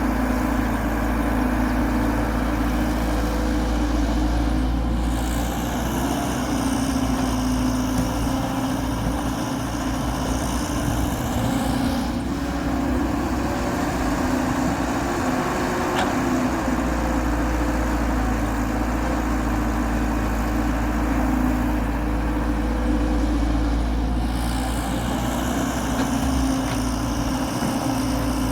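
Diesel engine of a Hyundai Robex 1300W wheeled excavator running steadily under working load while it digs and loads mud.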